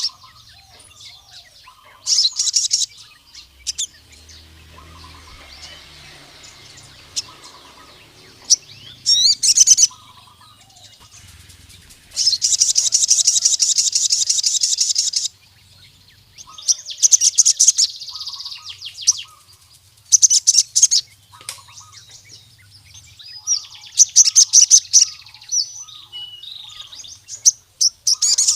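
Sogon (crimson sunbird) male singing a wild-type rival-challenge song: bursts of rapid, high-pitched trilling, the longest about three seconds, with quieter twittering between them.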